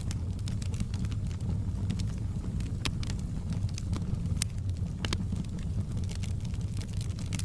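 Campfire burning: a steady low roar of flames with frequent crackles and sharp pops from the wood, a few louder snaps among them.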